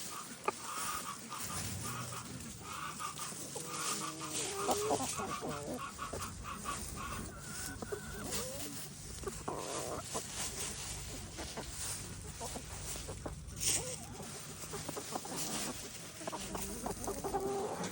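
Chickens clucking and murmuring in a flock, with scratching and rustling of hay throughout and a sharp click about 13 seconds in.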